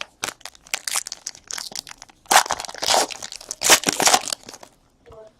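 Plastic or foil packaging crinkling and tearing in a rapid run of crackles, loudest in two flurries about two and a half and four seconds in, as cards are unwrapped.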